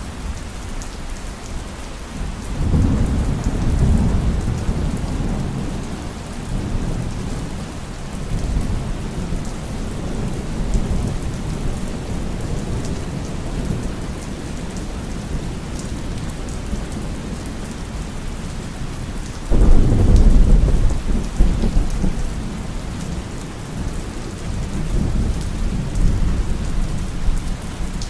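Steady heavy rain with thunder: a rolling rumble about two and a half seconds in, a sudden louder clap about twenty seconds in that rumbles on for several seconds, and another rumble near the end.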